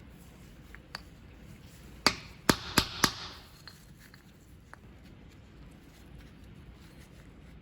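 Small hard parts or tools knocked against a workbench: four sharp clicks in quick succession about two seconds in, with a few light ticks before and after.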